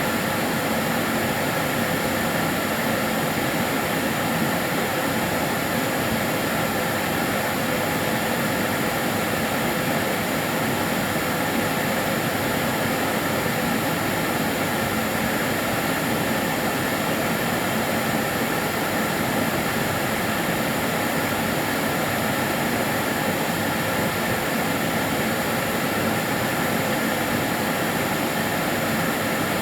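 Kärcher DS 6 Premium water-filter vacuum cleaner running steadily: an even rush of motor and air noise with a faint steady hum, unchanging throughout.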